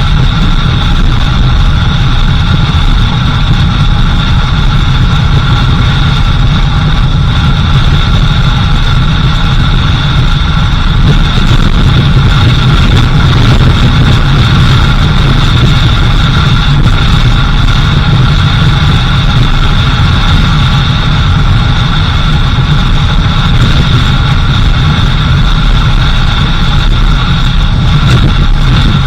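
A four-wheel-drive vehicle's engine running steadily as it drives along a dirt road, with a heavy, unbroken rumble and a constant higher whine.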